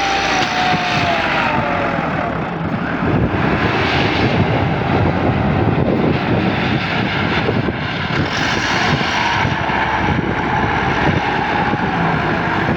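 Massey Ferguson 385 tractor's diesel engine running loudly and steadily, with a whine that falls in pitch over the first two seconds.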